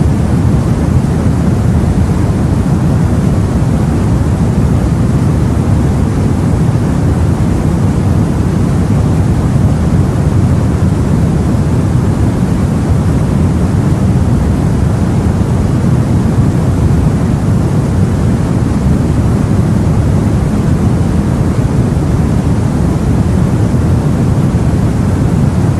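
Sea and wind heard from aboard a boat: a loud, steady, deep roar with no separate waves standing out.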